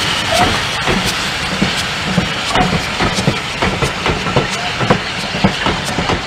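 Steam-hauled passenger coaches rolling past, their wheels clicking irregularly over the rail joints two or three times a second. A fading hiss of steam from the saddle-tank locomotive at the head of the train lies beneath.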